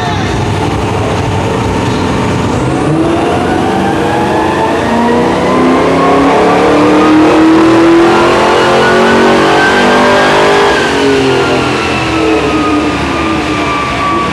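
Car engine pulling at full throttle on a chassis dynamometer during a power run: the revs climb steadily for about eight seconds, peak, then drop away as the throttle is released.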